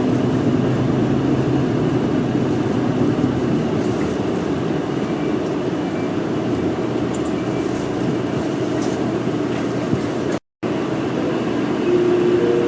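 Inside a city bus: engine and road noise as the bus slows for a stop, the engine note fading after the first couple of seconds. The sound cuts out completely for a moment about ten seconds in, and a few steady tones come in just before the end.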